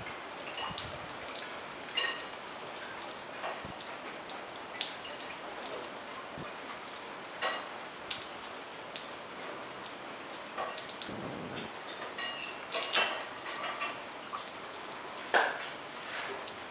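Steady rain falling, with drops landing close by in irregular sharp taps. A few of them give a short ringing ping.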